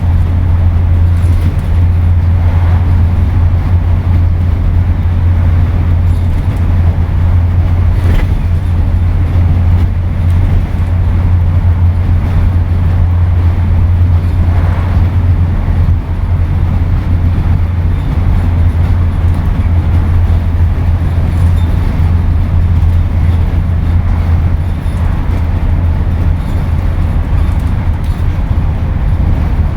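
Scania N230UD double-decker bus engine heard from on board, running with a steady low drone and no change in pitch, over a rushing road noise. A faint knock about eight seconds in.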